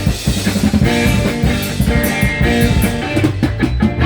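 Rock music with guitar and drum kit playing between vocal lines.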